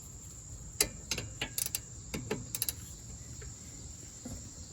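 A run of about ten sharp metallic clicks and clinks from a 14 mm socket wrench being worked on a rear brake caliper bolt to loosen it. Crickets keep up a steady high-pitched chirring underneath.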